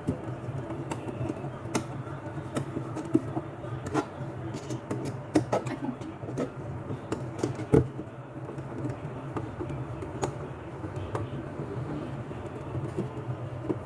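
Irregular light clicks and knocks, as of objects being handled, over a steady low hum.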